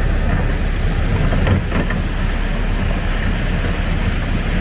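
Storm wind buffeting the microphone, a steady low rumbling rush, with street traffic running underneath.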